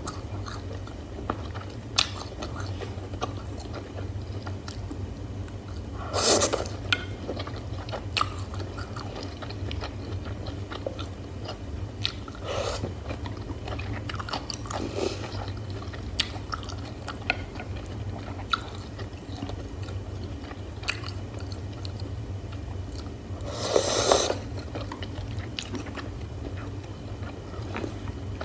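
Close-miked eating sounds: biting and chewing cooked beef slices and mushrooms, with many small wet clicks. A few louder noisy bursts come about six, twelve, fifteen and twenty-four seconds in, over a steady low hum.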